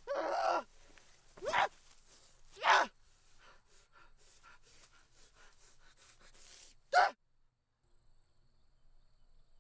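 A person's short non-word vocal sounds: a breathy gasp at the start, then three brief voiced exclamations spread over the next several seconds.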